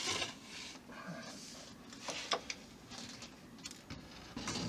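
Scattered light clicks, taps and rustling from model-kit parts being handled and moved about.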